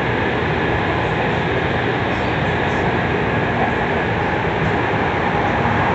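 Running noise heard inside a Tokyu 3000 series train car, which has Hitachi IGBT VVVF traction equipment: a steady rumble of wheels on rail, with a faint steady high tone over it.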